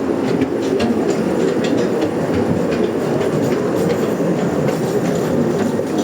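Steady rumble of a moving vehicle, with irregular clicking and rattling over it.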